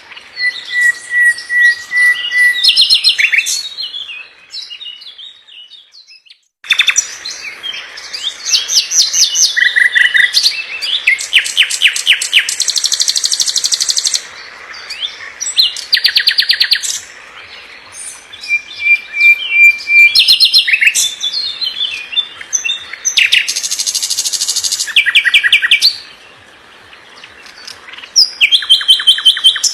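A songbird singing a fast, varied song: rapid trills and quick runs of repeated notes, with a couple of short held whistles. The song breaks off into a short silence about five seconds in, then starts again.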